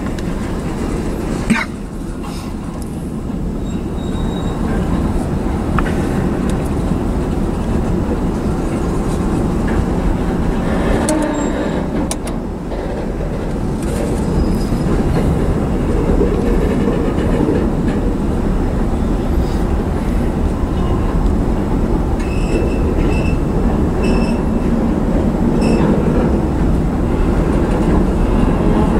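Covered hopper cars of a freight train rolling past close by, with a steady rolling noise of steel wheels on the rails. A single sharp knock comes about a second and a half in, and a few brief high squeals sound in the last third.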